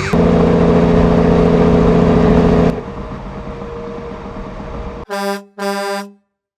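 A vehicle horn sounds a long, loud blast over background noise, then gives two short toots about half a second apart before cutting to silence.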